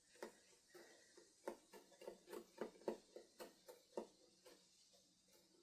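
Faint, irregular clicking of ice slush being stirred and broken up in a drinking glass, about three clicks a second, dying away after about four and a half seconds.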